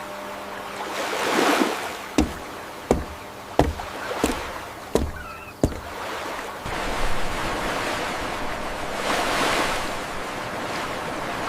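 Surf-like washing noise that swells and fades, with six sharp knocks at an even pace, about one every 0.7 seconds, in the first half.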